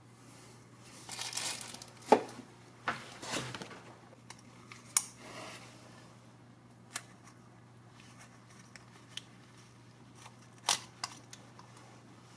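Handling noises: two rustling swishes in the first few seconds, then a string of sharp clicks and taps, over a faint steady low hum.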